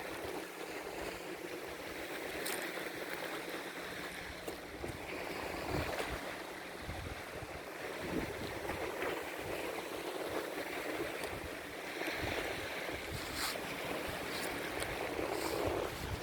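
Small sea waves washing in and receding in slow swells every few seconds, with wind gusting on the microphone.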